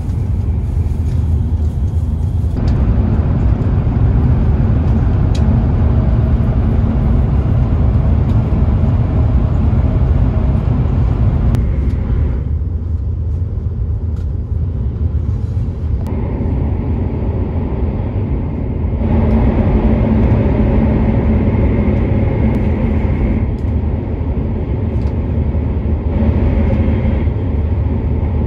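Running noise of a Hokuriku Shinkansen (E7/W7 series) at speed, heard inside the Gran Class cabin: a steady, loud low rumble with a hiss of track and wind noise. The hiss drops away for a few seconds around the middle, then comes back stronger.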